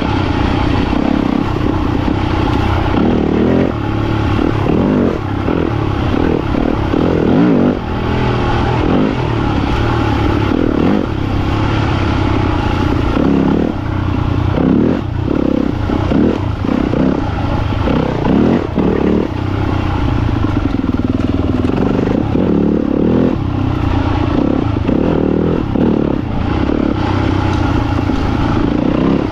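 Yamaha YZ250FX dirt bike's single-cylinder four-stroke engine running under constantly changing throttle on a trail ride, its pitch rising and falling every second or so, with clattering from the bike over rough ground.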